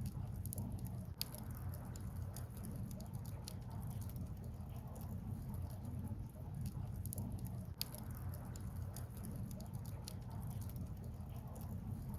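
Wood fire crackling, with scattered sharp pops and snaps over a steady low rumble; two pops stand out, one about a second in and one near eight seconds.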